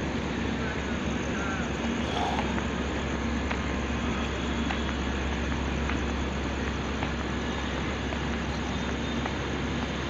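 Steady droning hum of a standing diesel passenger train's engines running, with a constant low hum and a few faint brief chirps about a second in.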